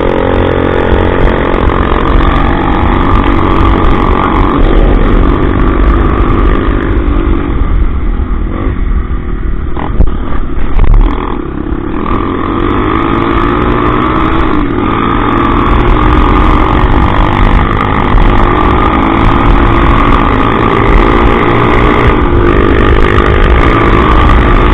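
Motorcycle engine running while riding, its pitch rising and falling with the throttle. It eases off about a third of the way in and picks up again about half way through.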